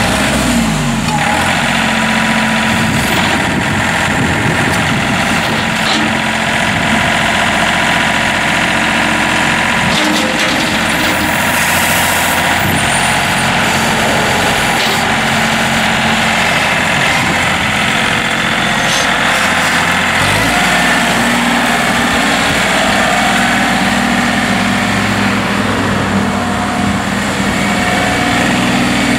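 John Deere 3038E compact tractor's three-cylinder diesel engine running, picking up speed just after the start and shifting engine speed about ten and again about twenty seconds in.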